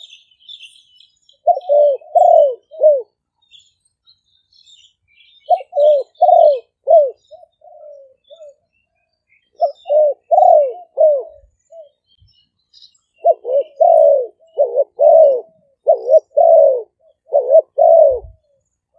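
Spotted dove cooing in repeated phrases of three to five notes, a few seconds apart, the last phrase longer and run-on. Faint high chirps of small birds sound in the background.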